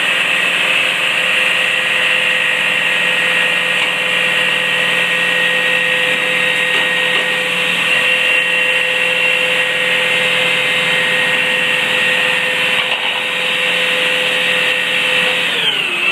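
Front-loader garbage truck's engine held at high revs with a steady high-pitched hydraulic whine, as when the forks or packer are being worked; near the end the pitch slides down as the revs drop back toward idle.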